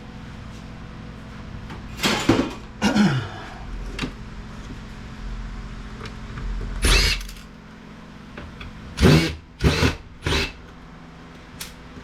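Metal and plastic parts of dismantled IT equipment clattering as they are handled and set down or tossed aside: several short knocks and rattles, with a steady low hum underneath.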